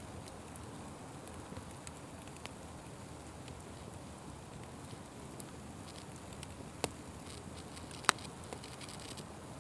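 Open wood fire burning with a steady low rush of flame and scattered small crackles. Two sharp louder pops come near the end, the second the loudest.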